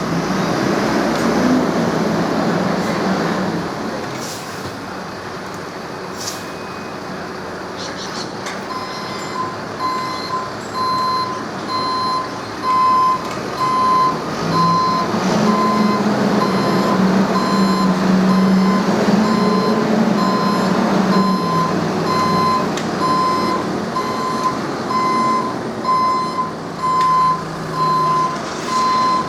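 A heavy vehicle's engine running, with its reversing alarm starting about nine seconds in and beeping steadily, roughly once a second, as it backs up.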